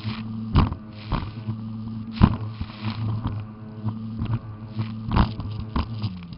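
Jet ski engine running at a steady speed, its pitch dropping slightly near the end, with frequent sharp knocks and thuds over it.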